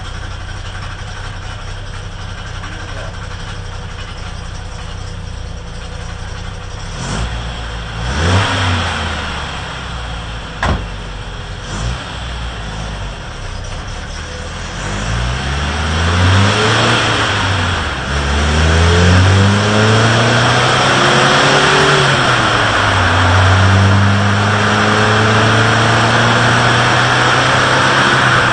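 Opel GT's four-cylinder engine running on a rolling-road dynamometer: it idles steadily, is blipped briefly a few times, then pulls up through the revs with a drop in pitch as it changes gear, rises again and holds at steady higher revs near the end, louder under load.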